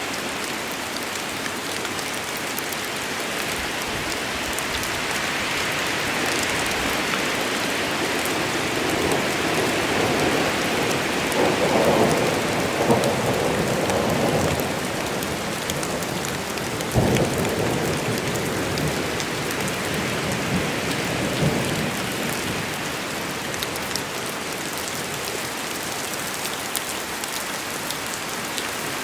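Steady heavy rain falling on forest foliage, with a swelling rumble of thunder near the middle and a sharp crack a few seconds later.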